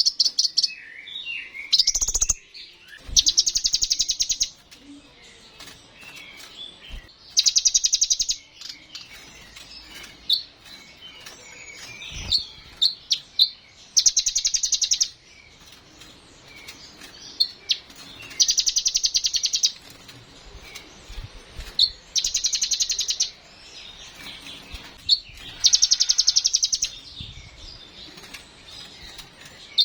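Kolibri ninja sunbird singing: loud, high, rapid trills about a second long, repeated every few seconds, with softer twittering in between.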